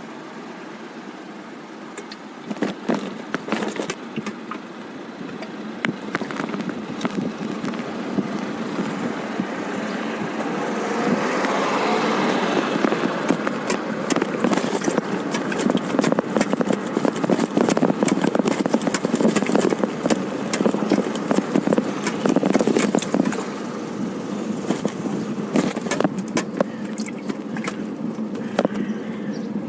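Lawn-mowing machinery running, mixed with dense rattling and clicking from a bicycle being ridden. The noise swells about a third of the way in and stays loud.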